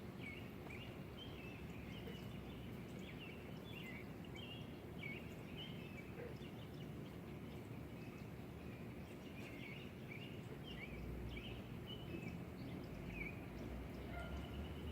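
Small birds chirping and twittering in short, irregular calls, over a steady low background hum.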